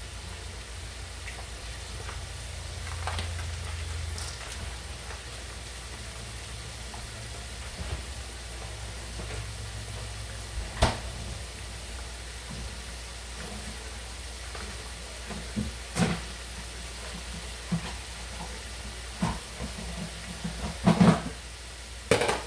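Food sizzling in hot oil on the stove, a steady hiss broken by scattered clicks and knocks of cookware and utensils, which come more often and louder near the end.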